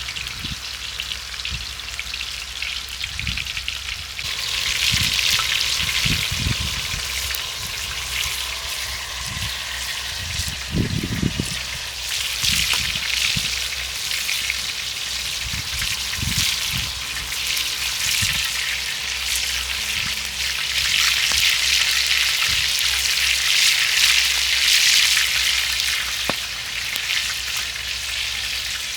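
Hot oil sizzling in a pan as stuffed meat rolls fry over a wood fire, growing louder about four seconds in, with a few dull knocks in the first part.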